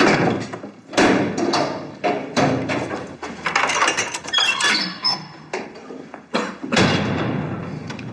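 A series of loud, irregular knocks and clanks, each with a short echo, the heaviest near the start, about a second in, and again near the end.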